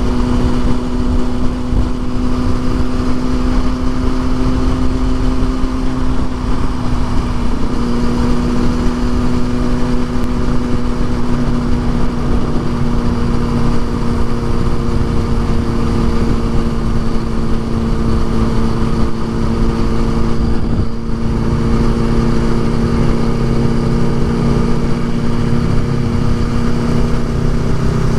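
Motorcycle engine running at a steady cruise under wind rush, its pitch dipping briefly about seven seconds in, then holding even and starting to fall right at the end.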